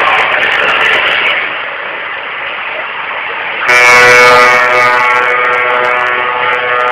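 Steady noise of traffic and engines, then a little over halfway a truck air horn sounds suddenly and holds, several steady tones together, louder than the noise before it.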